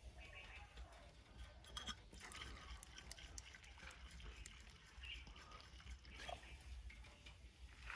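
Near silence: a faint low hum with scattered small clicks and ticks.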